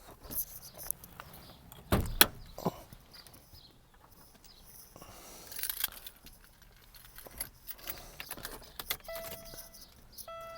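Keys jangling and clicks and knocks from handling controls inside a 1997 Oldsmobile 88's cabin, with a sharp knock about two seconds in. Near the end the car's electronic warning chime starts dinging in repeated steady tones.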